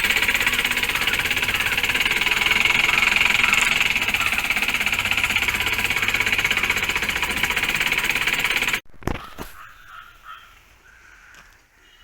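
A motor running steadily with a fast, even flutter, cutting off abruptly about nine seconds in, followed by a few faint clicks.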